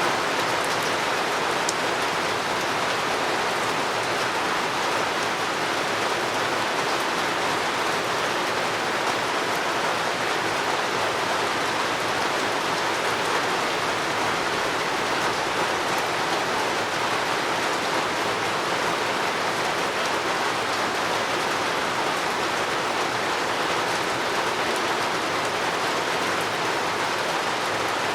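Steady rainfall: an even, unbroken hiss of rain falling on surfaces, with a few faint drop ticks.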